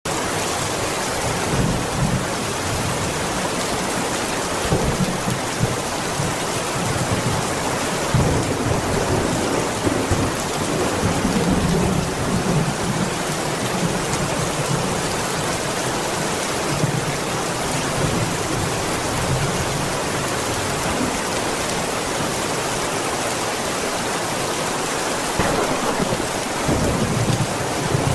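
Heavy rain falling steadily, with low rumbles that come and go, swelling about a third of the way in and again near the end.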